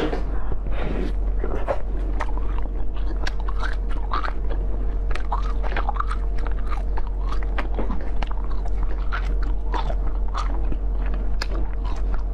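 Close-up wet mouth sounds of biting and chewing soft green jelly: many short wet clicks and smacks, one after another.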